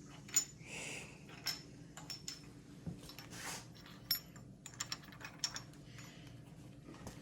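Scattered light metallic clinks and taps of engine parts being handled, with a couple of brief rustles.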